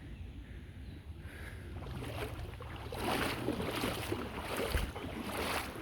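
Splashing of feet wading through shallow lake water, a splash with each step, over low wind rumble on the microphone. The splashing starts about two seconds in and grows louder.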